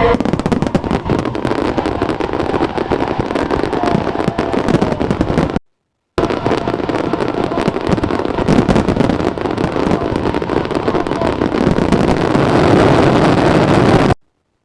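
Fireworks going off in a dense, rapid barrage of crackles and pops. The sound drops out completely for a moment about halfway through and cuts off suddenly just before the end.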